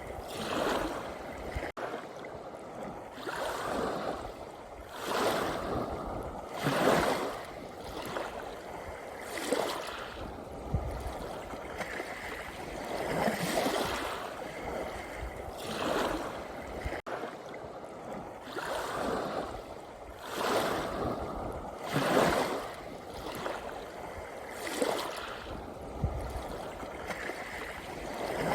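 Small sea waves lapping and washing in, a surge of water every second or two over a steady wash.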